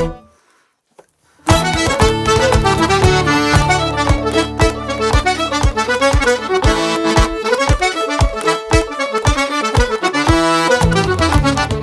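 Traditional Métis/Québécois dance tune led by accordion, with fiddle, guitar and podorythmie foot-tapping keeping a steady beat. The band stops dead for about a second and a half, then comes back in together.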